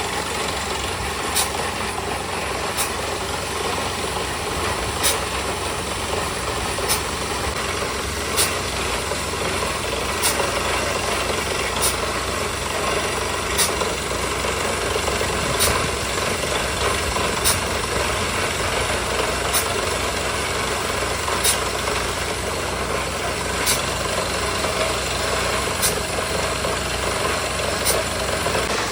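Engine of a small borewell drilling rig running steadily, with a sharp click about every two seconds.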